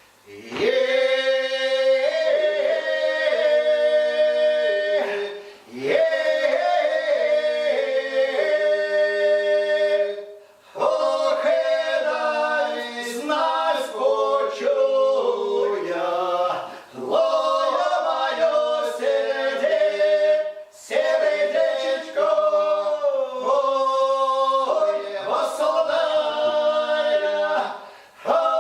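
Small folk ensemble singing unaccompanied in several parts, in the old polyphonic village manner, probably a Russian recruit song. The voices enter together just after the start and sing in phrases with short breaks between them.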